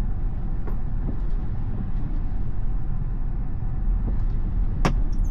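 Steady low rumble of road and wind noise inside a Tesla on the move, with one sharp tap near the end: a pine cone or something similar hitting the glass.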